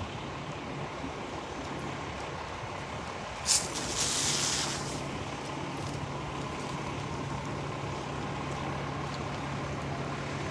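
Heavy truck engine idling steadily. About three and a half seconds in comes a short sharp burst, then about a second of loud hissing, like air being let out of truck brakes.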